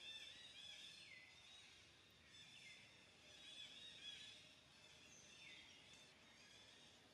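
Faint chirping of birds: high, overlapping calls, with a few falling chirps about a second, two and a half seconds and five and a half seconds in.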